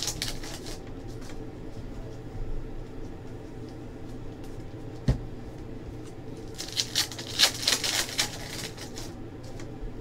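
Trading cards being handled and slid against one another. There is one sharp knock about five seconds in, and a flurry of crisp card rustling a little after halfway, over a steady low room hum.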